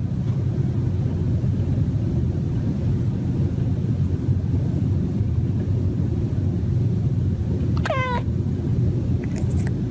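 A cat gives one short, falling, chirp-like mumble about eight seconds in, the kind of vocalising a cat makes while stalking birds. Under it runs a steady low rumble.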